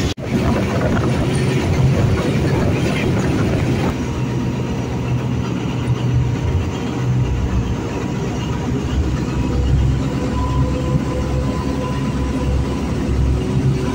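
State Railway of Thailand passenger train running along the track, heard from beside the moving coach: a loud, steady rumble of wheels on rail.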